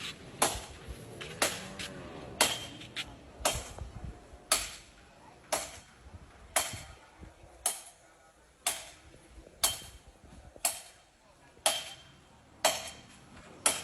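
Sharp knocks, evenly spaced at about one a second, each dying away quickly.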